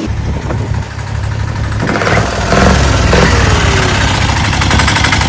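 Small turbo diesel engine of a home-built chopper motorcycle running, a steady low pulsing sound, briefly swelling louder about two to three seconds in.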